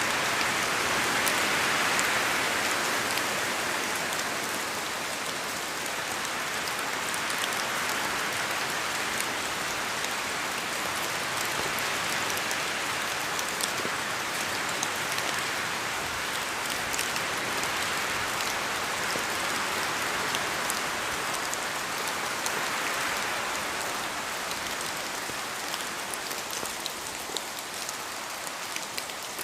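Steady rain in a forest, with many separate drops falling from the trees in sharp ticks over a dense hiss. The hiss swells and eases slowly a few times, as wind moves through the trees, and softens a little near the end.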